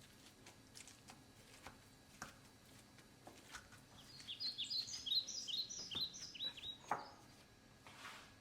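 A small bird twittering: a quick run of short, high chirps lasting about three seconds in the middle. Faint scattered clicks and taps sound around it.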